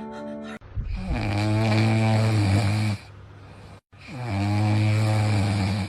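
A pet snoring loudly: two long, low snores of about two seconds each. Each dips in pitch at its start and then holds steady.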